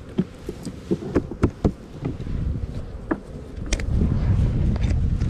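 Honeybees buzzing around open hives, with scattered short knocks and clicks of hive equipment being handled.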